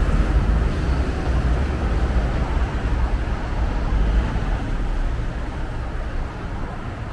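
City road traffic: a steady low rumble of engines and tyres that slowly fades.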